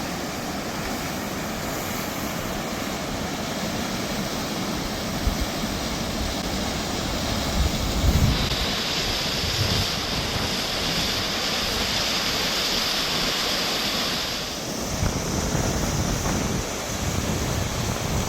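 Steady rush of a waterfall, with wind buffeting the microphone. The hiss turns brighter for several seconds in the middle.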